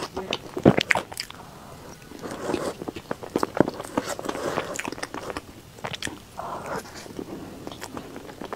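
Close-miked eating of a cream cake: chewing and mouth sounds with sharp crunches from the chocolate crisp pearls, and a metal fork cutting into the soft sponge. The loudest crunch comes about three-quarters of a second in.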